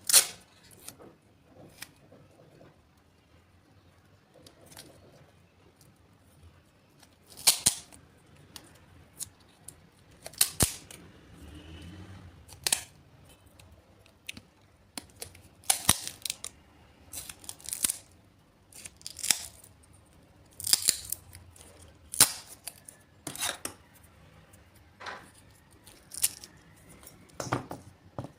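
A series of short, sharp snips and clicks, roughly one every second or two, from small hand tools cutting or working small parts.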